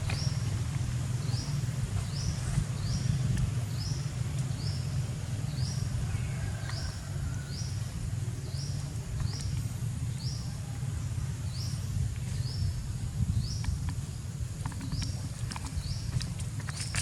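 Outdoor ambience: a short, high, rising chirp repeated roughly once a second from a small animal, over a steady low rumble. A few light clicks come near the end.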